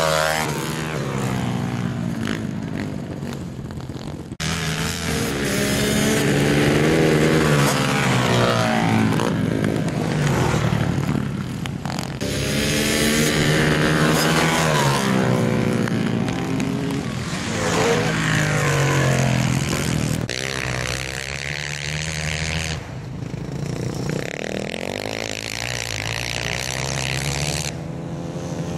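Single-cylinder pit bike engines racing, revving up and easing off again and again, with several abrupt changes in the sound.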